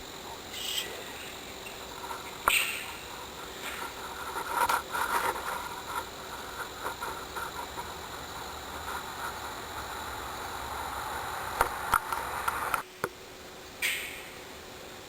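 Short screeches from an unidentified wild animal, about a second in, again at two and a half seconds and once more near the end, which the recordist guesses may be a fox or a fisher. Between the calls come scattered knocks and rustling.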